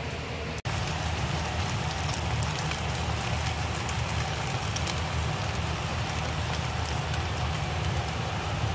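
Stir-fried noodles sizzling in a hot wok: a steady crackling hiss with frequent small pops, over a low steady hum.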